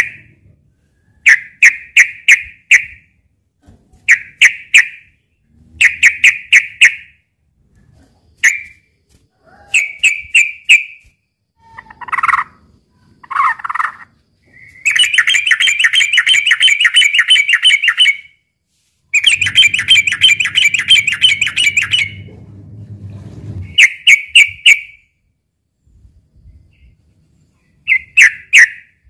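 Yellow-vented bulbul (trucukan) giving its aggressive fighting call: short bubbly bursts of three or four quick notes, repeated every second or two. About halfway through come two longer runs of rapid, unbroken chattering, each about three seconds long.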